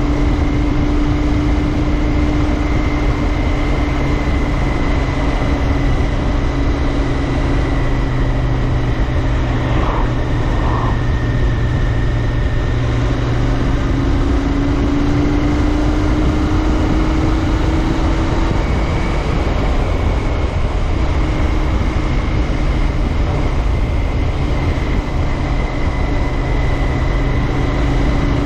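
Royal Enfield Interceptor 650's parallel-twin engine running steadily at cruise, over a steady rush of wind and road noise. Its pitch sags a little around the middle and climbs back up.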